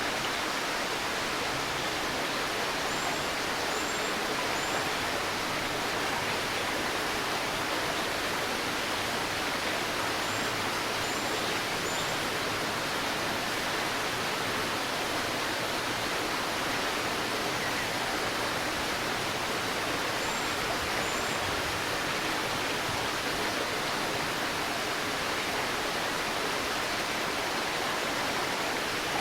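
A shallow river babbling and rushing steadily, with a bird giving short, high, faint chirps in little groups of two or three, a few seconds apart.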